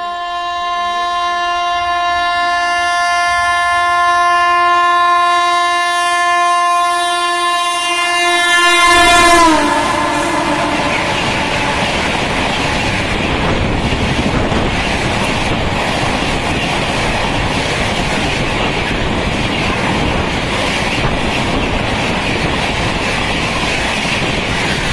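Horn of an Indian Railways WAP-7 electric locomotive sounding in one long continuous blast as an express approaches at high speed, getting louder. Its pitch drops sharply about nine seconds in as the locomotive passes. Then comes the steady rush and clickety-clack of the passenger coaches running through at speed.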